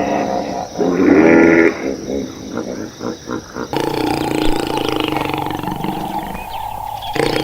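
Farm animal calls cut one after another: a loud pitched call about a second in, a quick run of short pulsed calls, then a steadier, denser call from a different clip.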